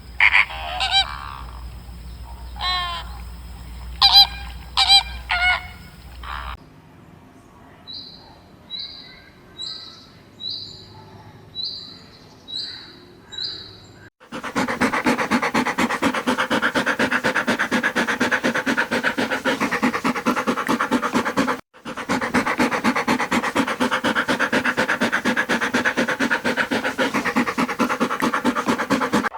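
A run of animal calls. Loud honking fowl calls come first. About halfway through, a series of short, high chirps follows, and then a dense, continuous chorus of rapid pulsing calls, which breaks off briefly once.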